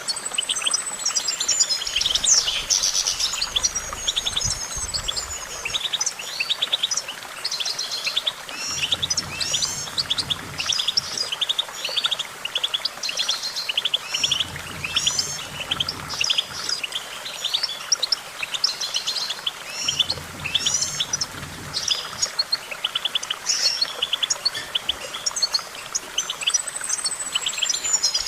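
European goldfinch singing a long, continuous song of rapid twittering trills and chattering notes, with a high falling whistle near the start and again near the end.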